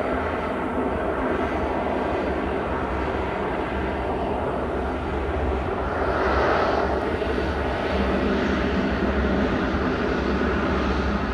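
Jet airliner's engines, a loud steady rush of engine noise that swells briefly about six seconds in, typical of a Boeing 787-9 arriving.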